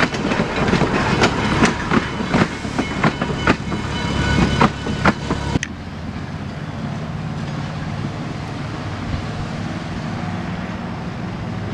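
Steel wheels of a passing caboose and open passenger car clicking irregularly over rail joints. About halfway through, the sound cuts suddenly to a quieter, steady low rumble of the train moving off in the distance.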